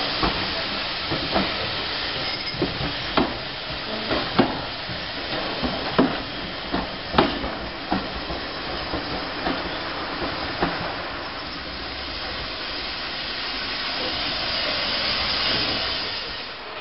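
Passenger coaches rolling slowly past on the next track, their wheels clicking over rail joints about once a second; the clicks stop about two-thirds of the way through as the last coach clears. A steady hiss runs underneath and swells near the end.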